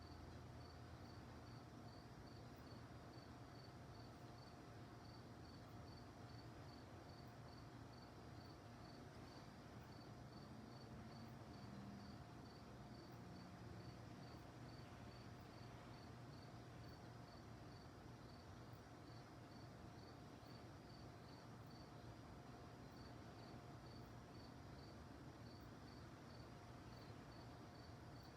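Faint crickets chirping at night, a high chirp repeating evenly about twice a second, over a low steady hum.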